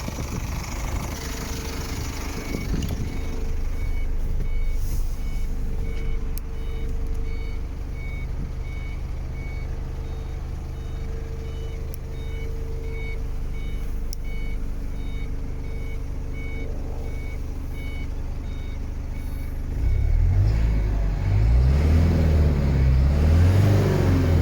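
IVECO Eurocargo 75E18 diesel engine idling steadily while a high electronic warning beep repeats at an even pace. About twenty seconds in, the beeping stops and the engine is revved several times, each rev rising and falling.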